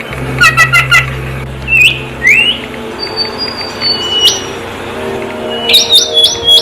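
Wild songbirds calling: a quick burst of short chirps, a few rising calls, then thin drawn-out whistles, with more clipped chirps near the end. A low steady drone runs underneath.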